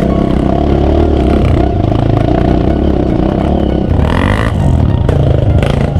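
Off-road vehicle engine running loudly on a trail, its pitch rising and falling with the throttle, with some clatter.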